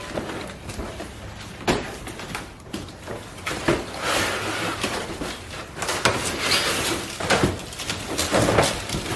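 Irregular knocks, clicks and rustling of parts and packaging being handled, with a stretch of rustling in the middle.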